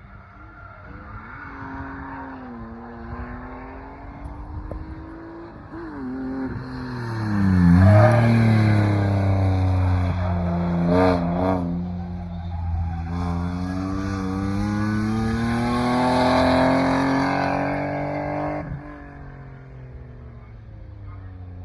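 BMW drift car's engine revving hard under throttle, its pitch dipping and climbing, much louder through the middle stretch with a quick wavering of the revs about eleven seconds in. Near the end the sound drops off suddenly to a fainter engine note.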